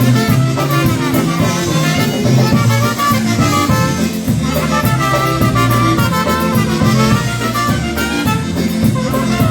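Live polka band playing an instrumental passage with a steady beat and bass line, with no singing.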